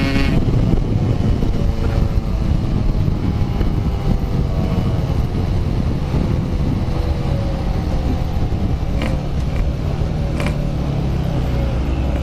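Motorcycle engine running hard on the road, its pitch rising and falling as the throttle is worked, over a strong low rumble.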